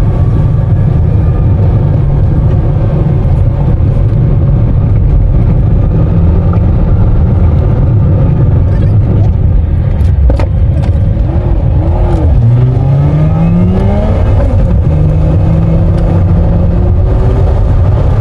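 Car engine and road rumble while driving, with the engine pitch rising for a couple of seconds about two-thirds of the way in as it accelerates.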